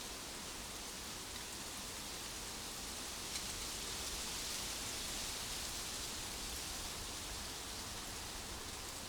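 Steady hiss of outdoor nature ambience with no birdsong, swelling a little in the middle. There is a faint click about three seconds in.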